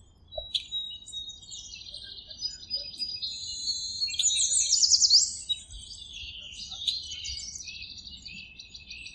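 Birds chirping and singing, several overlapping high calls, with a run of quick sweeping notes about four to five seconds in that is the loudest part.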